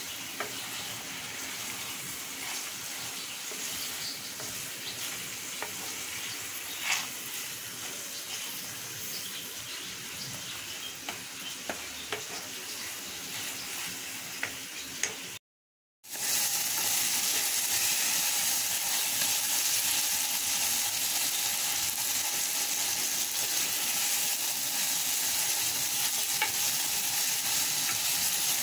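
Sliced onions, tomatoes and mint sizzling in hot oil in an aluminium pot, stirred with a wooden spoon, with scattered scrapes and taps of the spoon. The sound cuts out briefly about halfway through, and the sizzle after that is louder and more hissy.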